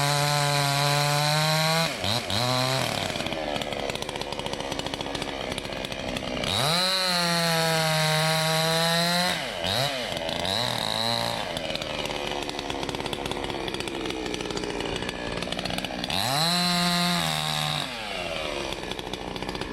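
Salem Master gas chainsaw cutting dry maple with a sharp chain. It revs high three times, and between the revs the pitch drops and roughens as the chain bites into the wood under load.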